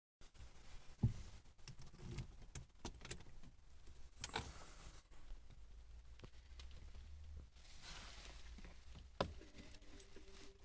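Keys jangling, with several sharp clicks and knocks scattered through; the loudest comes about a second in and another just after nine seconds.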